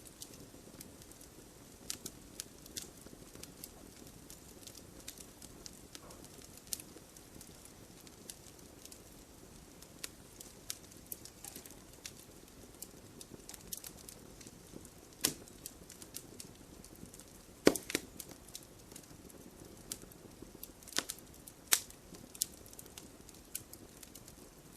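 Wood fire crackling: a low steady hiss of burning with sharp, irregular pops and snaps, the loudest about seventeen seconds in.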